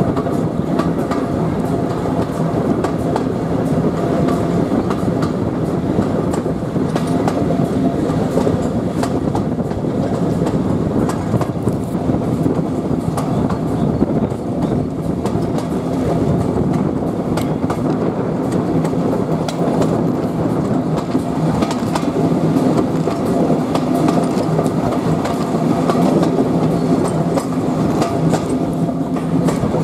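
Passenger coaches of a steam-hauled train running along the line, heard from an open carriage window: a steady rumble of wheels on rail with scattered clicks from the track and a few low steady hums.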